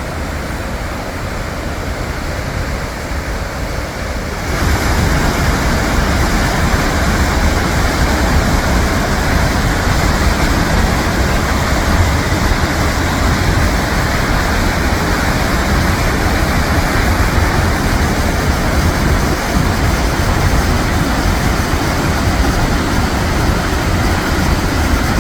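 Gullfoss waterfall: a steady rush of heavy falling water that gets suddenly louder about four and a half seconds in.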